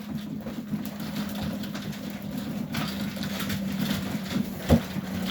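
Young Serbian Highflyer pigeons in a loft, with faint rustling and cooing over a steady low hum. A sharp knock comes near the end.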